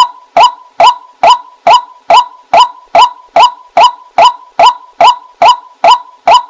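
White-breasted waterhen call played as a hunting lure: one loud, sharp note repeated at a perfectly even pace, a little over twice a second.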